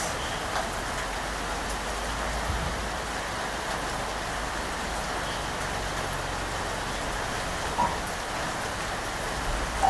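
Steady rain falling, an even hiss of drops on surfaces, with a few louder single drops tapping, the clearest about 8 seconds in and just before the end.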